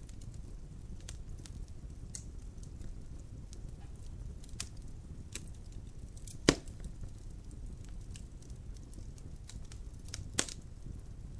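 Fire crackling in a fireplace: a steady low rumble of flames with scattered small crackles, and two sharp pops, the louder about six and a half seconds in and another near the end.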